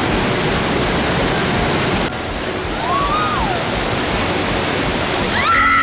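Whitewater rapids rushing loudly and steadily over rocks. A short call or shout rises above the water at about 3 seconds and again near the end.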